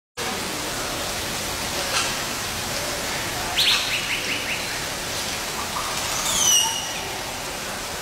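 Steady rushing background noise that starts abruptly, with high bird chirps over it: a short call about two seconds in, a quick run of rapid notes near the middle, and a falling whistled note later.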